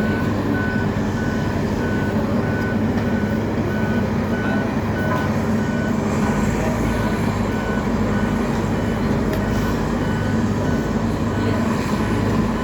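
Truck engine running steadily with an electronic warning beeper sounding evenly, about two beeps a second, throughout.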